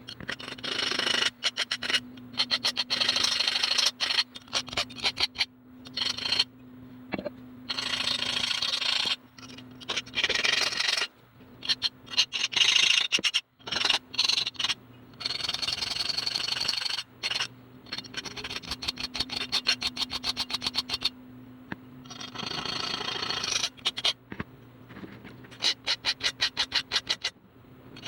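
Repeated bouts of quick scraping or rasping strokes, stopping and starting, over a faint steady low hum.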